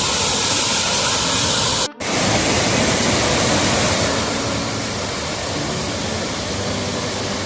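Waterfall rushing: a steady, loud wash of water noise, cut off for a moment about two seconds in.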